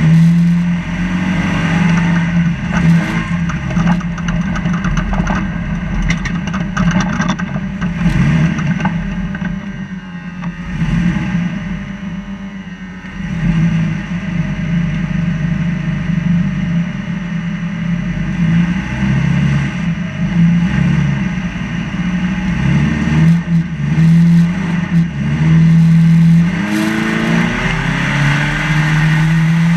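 Trophy Lite off-road race truck's engine running hard, heard from inside the cab, its revs rising and falling as it drives. It eases off briefly about twelve seconds in and revs up again near the end, with knocks and rattles from the truck throughout.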